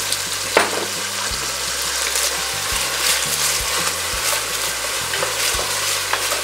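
Meat sizzling in hot bacon fat in a heavy Dutch oven as it is stirred and deglazed with raspberry vinegar; a steady hiss, with a sharp clink of the utensil against the pot about half a second in.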